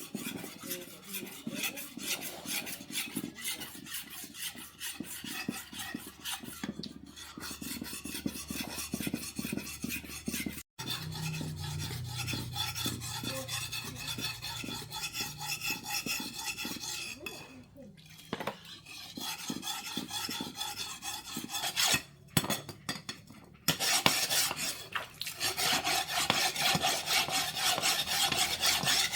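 Rapid, repeated scraping strokes of abrasive hand work on a part, broken off abruptly several times.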